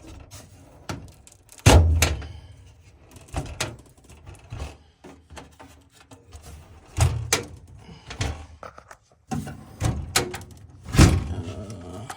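Irregular knocks and clunks as parts of a gas furnace are handled and moved during servicing, the loudest about two seconds in and again near the end, with quieter rattling and scraping between.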